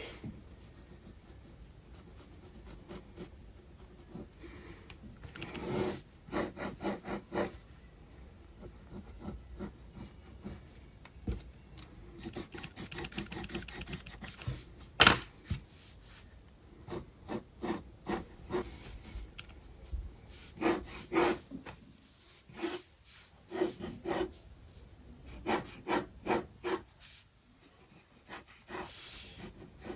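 Graphite pencil scratching on sketchbook paper: runs of quick back-and-forth shading strokes, broken by short pauses. One sharp tap about halfway through.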